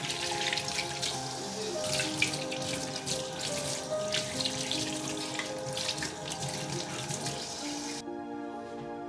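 Tap water running into a sink with splashing, cutting off sharply about a second before the end, over soft background music.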